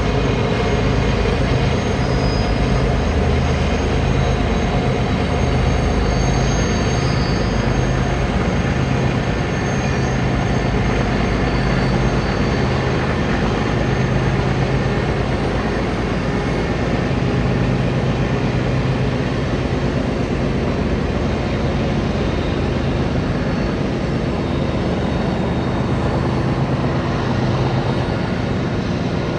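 Diesel freight train running steadily: a low engine drone over a constant rumble.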